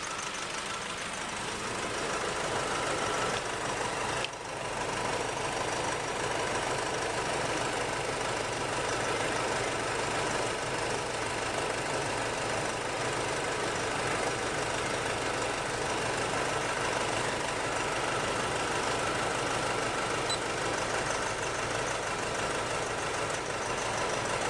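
A 2.5-litre common-rail turbo diesel engine idling steadily with diesel knock, with a brief dip about four seconds in. The engine has a misfire, and cutting number 1 cylinder's injector makes very little difference to how it runs, which points to number 1 as the weak cylinder.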